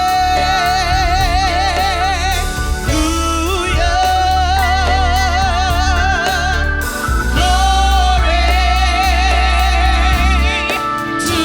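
Gospel song performed by a solo singer, holding long notes with wide vibrato over a heavy, steady bass accompaniment.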